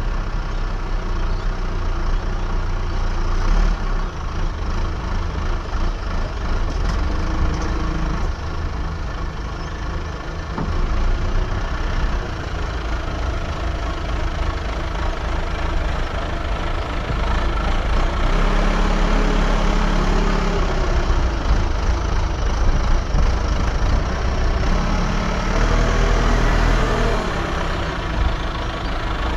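Diesel engine of earthmoving machinery running continuously, with its pitch rising and falling a few times in the second half as the machine works.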